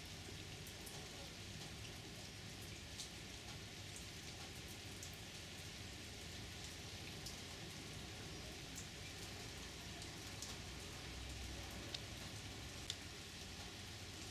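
A steady, low hiss with scattered faint sharp ticks, two of them a little louder near the end.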